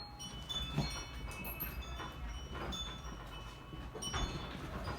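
A house shaking in an earthquake: light chime-like tinkling from small things set swinging, with a few clicks and creaks over a low rumble.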